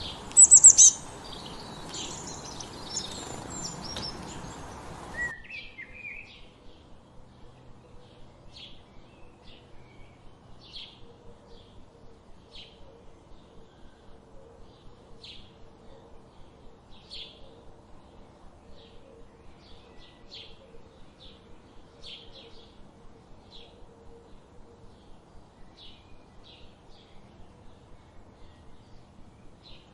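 Wild songbirds singing and chirping, with loud, high calls for the first five seconds or so. Then the sound cuts suddenly to a quieter recording of short, scattered high chirps.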